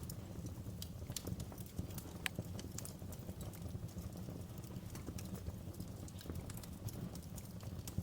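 Wood fire crackling: irregular sharp pops and snaps over a low steady rumble, with one louder snap a little over two seconds in.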